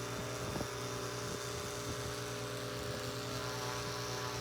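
Small electric power-tool motor running steadily at one constant speed, a low, even hum.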